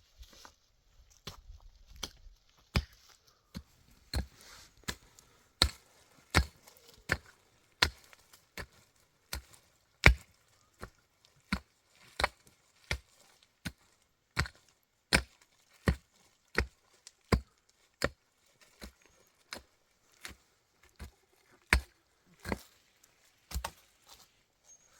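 A steady series of sharp chopping blows, about one every three-quarters of a second, some much harder than others.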